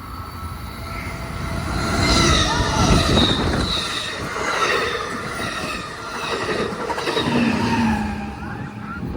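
Train passing fast through a station without stopping: a rush of wheels on rails that builds about a second in, with high squealing, ringing tones and a heavy low rumble. It fades near the end. The train's wind blast is buffeting the microphone.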